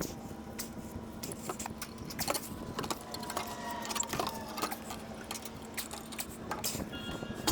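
Metal tools and parts clinking and tapping as they are handled during engine work, irregular light clicks, over a faint steady hum that stops near the end.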